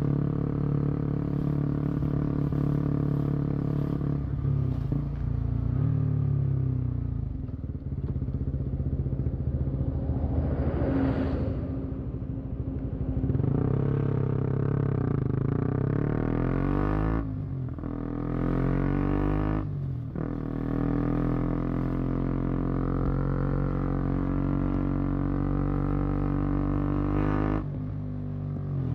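KTM Duke 125's single-cylinder four-stroke engine heard through its exhaust while riding, revs rising and falling, with several short dips between pulls.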